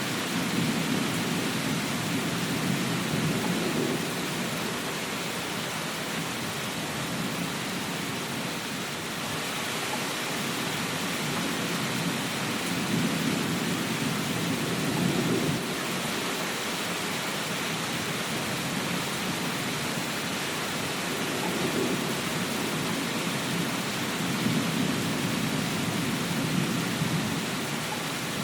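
Steady rain falling, an even hiss, with a low rumble that swells up and fades away several times.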